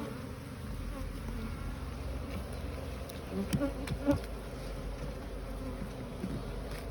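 Honeybees buzzing around an open hive, a steady hum with a few bees flying close past the microphone about three and a half and four seconds in. The colony is cranky, defensive and more active than usual.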